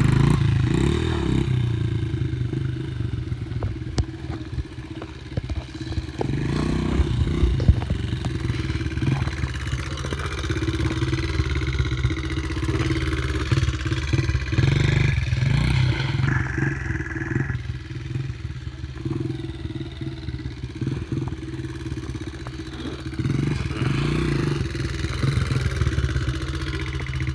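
Dirt bike engine running as the bike is ridden, the revs rising and falling with the throttle, with some clattering knocks over rough ground.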